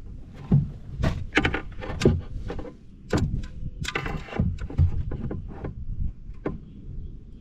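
Irregular knocks, thumps and light clatter of gear being handled in a fishing kayak, striking against the hull.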